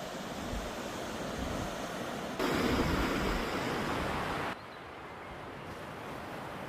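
Sea surf washing on the shore, mixed with wind noise. The level jumps up abruptly about two and a half seconds in and drops abruptly about two seconds later.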